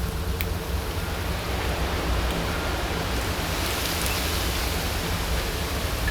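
Steady rushing outdoor background noise with a low rumble, swelling slightly in the middle, and a faint short chirp about two and a half seconds in.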